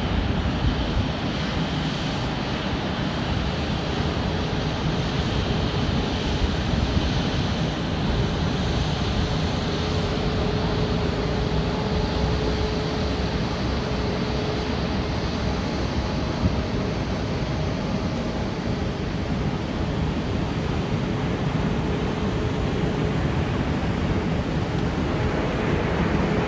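Airliner jet engines running with a steady noise and a faint steady hum, with no clear rise or fall.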